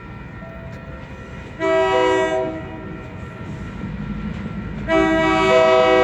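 An approaching train's locomotive air horn sounding a chord: a short blast about one and a half seconds in, then a long blast starting near the end, over the train's growing low rumble.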